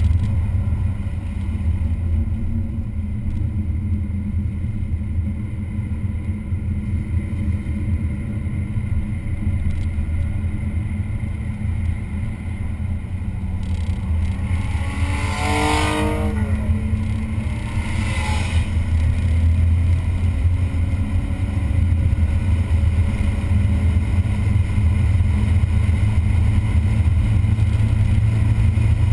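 A car running at speed on a track day, a steady low engine and road drone that grows louder over the last third. About halfway through, a brief higher-pitched whine sweeps downward.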